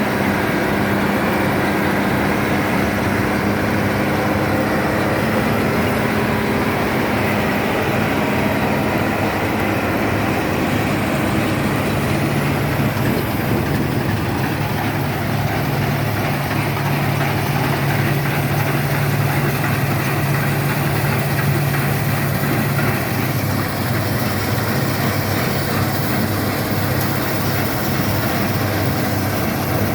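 Bizon Rekord Z058/1 combine harvester's 6CT107 six-cylinder diesel running steadily at working speed, together with the combine's machinery. Its note drops slightly about twelve seconds in.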